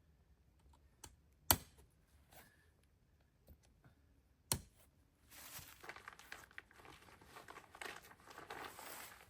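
Two sharp clicks about three seconds apart, then about four seconds of crinkling and rustling as some crinkly material is handled.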